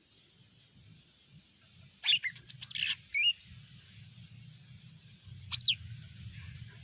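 Cucak ijo mini (a small leafbird) singing: a quick burst of high chirps about two seconds in, a short note right after, and another brief phrase near the end, over a faint steady low hum.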